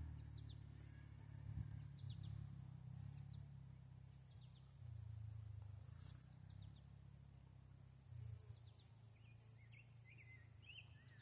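Near silence outdoors: wind rumbling on the microphone in gusts, with small birds giving short high chirps every second or two.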